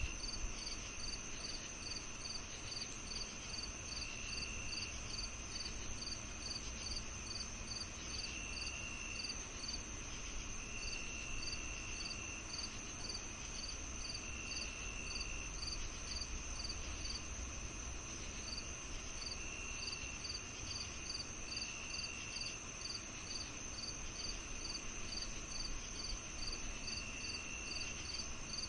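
Crickets and other insects calling together: one holds a steady high continuous trill, another chirps regularly about two or three times a second, and a third gives short, lower-pitched trills that come and go every few seconds. A faint low rumble lies underneath.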